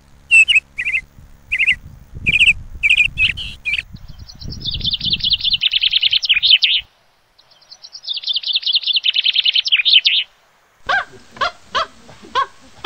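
Small birds calling: quick repeated high chirps, then two long rapid trills, each broken off by a brief silence. Near the end a different, lower run of pitched calls comes in.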